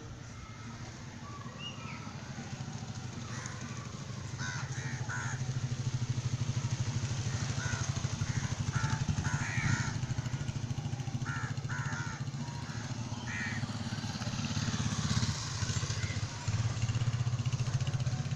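Crows cawing in short, harsh calls, several in quick clusters, over a steady low drone of an engine running.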